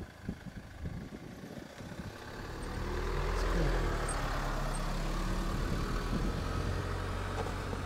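Motor vehicle engine running steadily, growing louder about two and a half seconds in and then holding.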